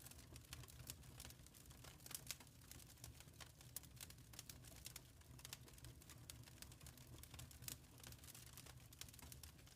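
Faint crackling of a wood fire in a fireplace: irregular small pops and snaps, several a second, over a low steady rumble of the burning.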